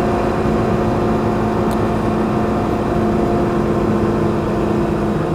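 BMW G310GS's single-cylinder engine running at a steady cruising speed, with wind and road noise.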